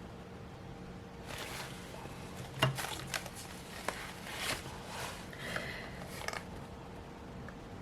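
Handling noises at a craft table: a run of short, scratchy rustles and taps from about a second in, with the sharpest tap about two and a half seconds in, over a steady low hum.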